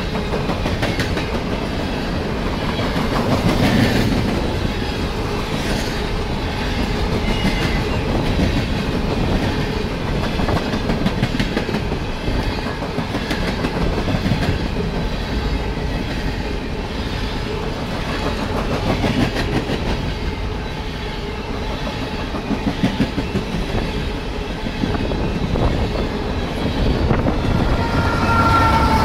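Coal train hopper cars rolling past at close range: a steady rumble with steel wheels clattering over the rail joints. Near the end it grows louder as the rear Norfolk Southern diesel locomotive comes alongside.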